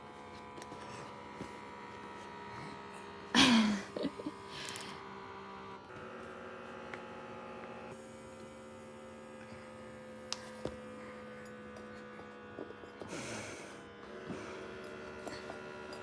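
A steady hum made of several held tones. About three and a half seconds in, a short high voice call falls in pitch, and a fainter falling call comes near the end.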